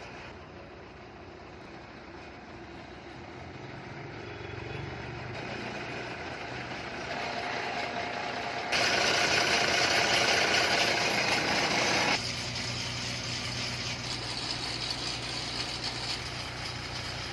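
Ashok Leyland 3718IL cargo truck's diesel engine idling steadily, getting louder over the first several seconds. About nine seconds in a much louder noise cuts in over the engine and stops suddenly about three seconds later.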